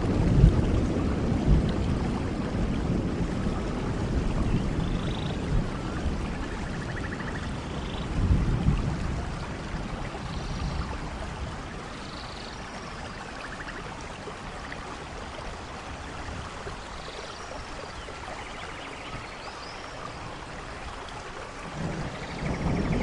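Steady rain with rolling thunder: a rumble dies away at the start, another swells about a third of the way in, and thunder builds again near the end, with quieter rain between. Faint high chirps sound above the rain now and then.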